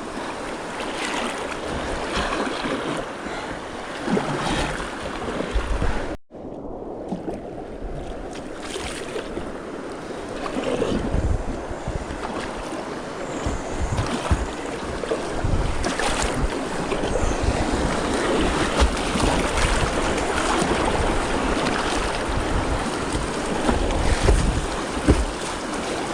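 Rushing whitewater of the Nantahala River around a kayak, with wind buffeting the microphone in low rumbles and a few paddle splashes. The sound cuts out for an instant about six seconds in.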